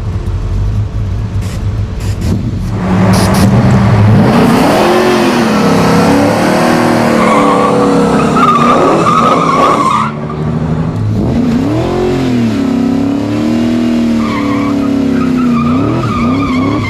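A drag-race Mustang doing a burnout: tyre squeal and hiss over its engine, revs rising and falling. It starts about three seconds in, eases briefly about ten seconds in, and picks up again.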